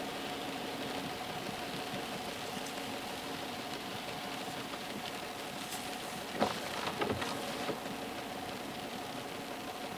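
Inside a car's cabin while driving on wet streets in the rain: steady engine hum and road and rain noise. A few short sharp knocks come between about six and eight seconds in.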